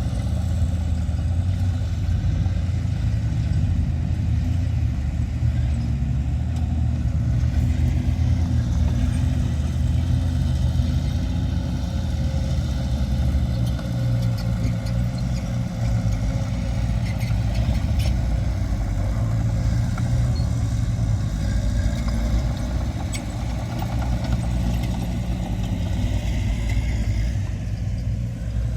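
Heavy diesel earthmoving machinery running steadily, a deep continuous engine drone with a few faint clanks.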